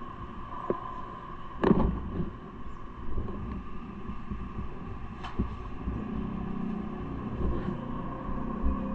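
Steady vehicle rumble with a constant hum, broken by a sharp knock a little under two seconds in and another just after five seconds.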